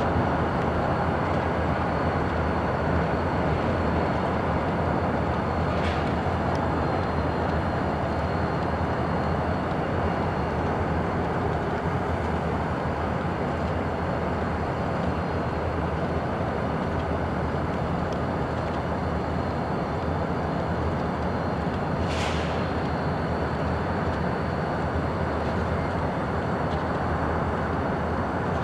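Diesel locomotive running steadily in a rail yard, a continuous low engine drone, with two short high-pitched sounds about six seconds in and again near the end.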